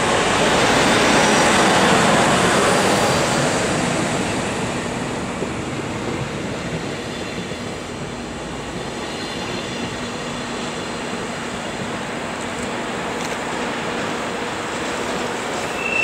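Metre-gauge train hauled by a Deh 4/4 electric locomotive rolling past and pulling away, its wheels and running gear running on the rails. Loudest in the first few seconds as it passes close, then easing as it moves off.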